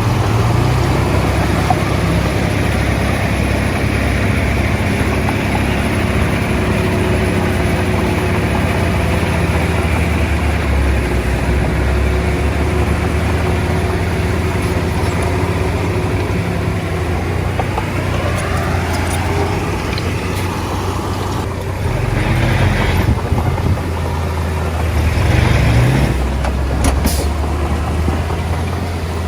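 Komatsu D20A bulldozer's diesel engine running steadily under load, revving up briefly twice near the end.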